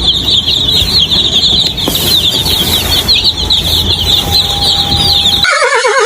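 Many chicks peeping together, a dense run of quick, high chirps over a low rumble. Near the end the sound cuts abruptly to a horse whinnying.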